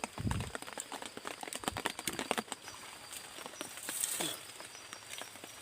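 Raindrops pattering in scattered sharp ticks on leaves or a surface, with a dull low thump about a quarter second in and a brief hiss about four seconds in.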